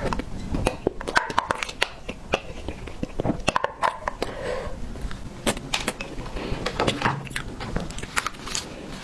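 Close-miked chewing of tiger skin roll sponge cake: many short, sharp mouth clicks coming irregularly.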